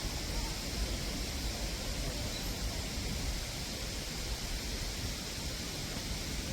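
Steady outdoor ambient noise: a low, fluttering rumble under an even hiss, with no distinct events.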